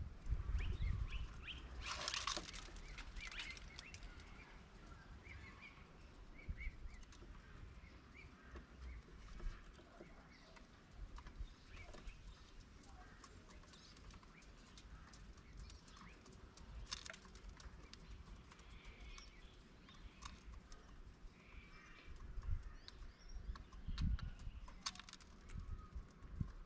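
Birds chirping and calling here and there in short notes, with a brief rush of noise about two seconds in and occasional low thumps.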